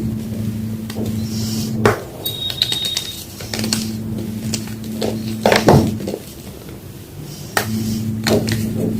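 Homemade gym chalk blocks crunching and crumbling as they are crushed, in scattered sharp crackles, over a low hum that comes and goes.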